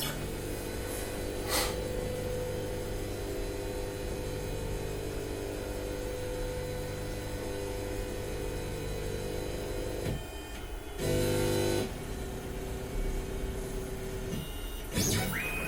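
Onefinity CNC machine's motors running with a steady, even hum for about ten seconds. It stops briefly, comes back louder for about a second, then settles into another steady hum at a different pitch.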